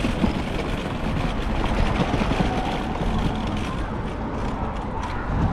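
Wind buffeting the microphone of a bicycle-mounted action camera while riding, mixed with steady road and traffic noise.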